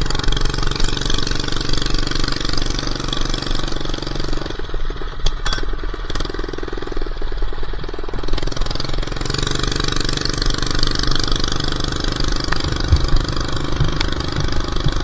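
Old minibike's small engine running with no muffler while being ridden, held on steady throttle. The note dips and turns rougher partway through, then picks back up; the engine runs so poorly that it stalls if the throttle is let off.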